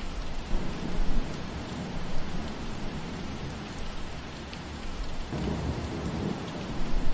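Steady rain falling through trees, with low rumbles swelling up about half a second in and again past five seconds.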